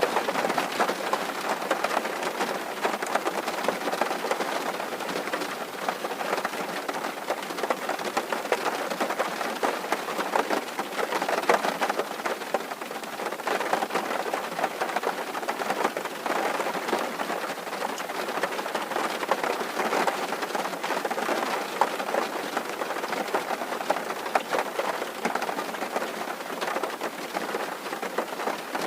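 Rain falling steadily on a tin roof: a dense, even patter of drops on the metal.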